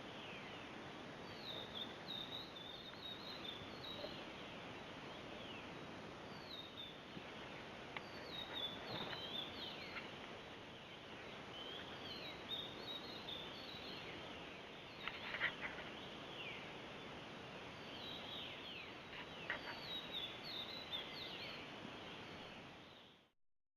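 Forest birds calling: many short high chirps and quick downward-sliding notes, repeated in loose clusters over a steady faint hiss.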